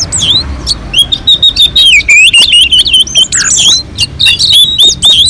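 Orange-headed thrush singing a loud, rapid, varied song: a dense run of quick sweeping whistles and chattering notes, several per second.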